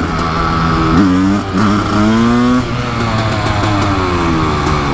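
Kawasaki KX500 big-bore two-stroke single-cylinder engine running under way, its pitch rising twice as it is revved, then falling away.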